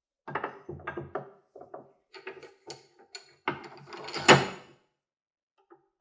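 A string of handling sounds on a workbench: irregular clicks, knocks and clatters of parts being moved, fitted or set down, with one louder knock about four seconds in.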